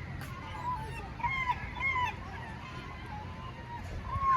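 Birds calling: a quick series of short, arched, honking calls, one after another, with the loudest near the end, over a steady low rumble.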